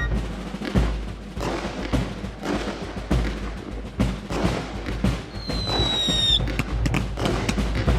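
Fireworks bursts and crackling, many sharp bangs in quick succession. About five seconds in, a whistling shell sounds for about a second, sliding slightly down in pitch.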